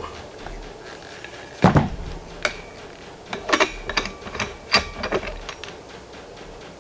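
Metal regulator parts and hand tools knocking and clinking on a workbench while a scuba first stage is taken apart: one loud knock early, then a run of sharp clicks, some with a short metallic ring.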